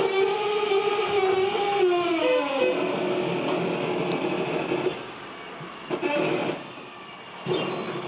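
Bin truck creaking and squeaking loudly, metal on metal: a long pitched squeal that slides down in pitch a little after two seconds in and fades by about five seconds, then two shorter squeals near the end.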